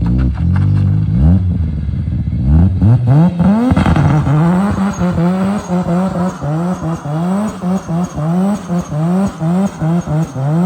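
Car engine running at a steady high note, then revved in quick repeated blips from about four seconds in, roughly two a second, each a short rise in pitch that drops back.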